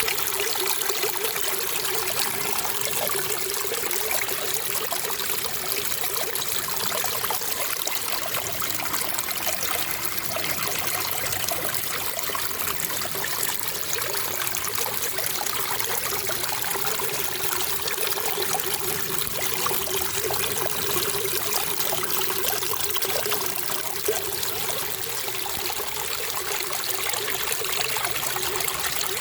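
Running water trickling and splashing, steady and unbroken.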